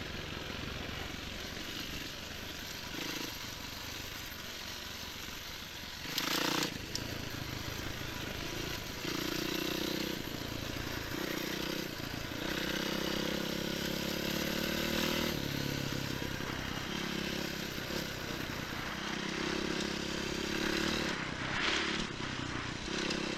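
Enduro motorcycle engine running under way, its pitch rising and falling as the rider works the throttle, over steady rushing noise, with a brief louder burst of noise about six seconds in.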